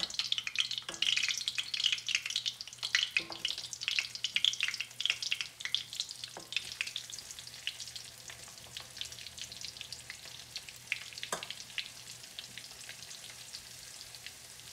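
Flour-coated bitter melon pieces sizzling and crackling as they drop into hot oil for deep-frying, busiest over the first several seconds and settling into a quieter steady sizzle. A few light knocks come in between.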